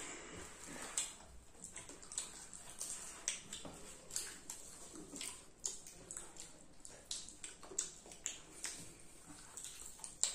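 Children chewing popcorn close to the microphone: irregular crunches, clicks and wet mouth sounds, several a second.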